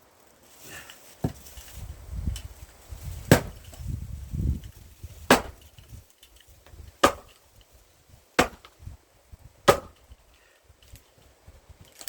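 Large hand-forged axe chopping a knotty pine stump round for firewood: about six sharp blows, one every one and a half to two seconds. A low rumble runs under the first few blows.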